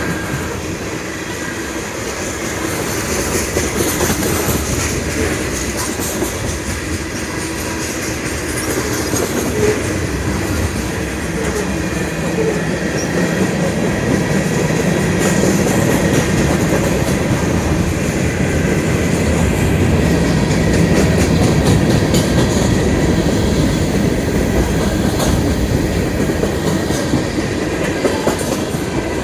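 Freight train cars rolling steadily past, wheels clacking over the rail joints, with faint wheel squeal.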